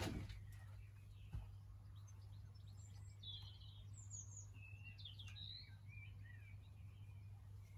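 Faint bird chirps, a handful of short high calls in the middle, over a low steady hum.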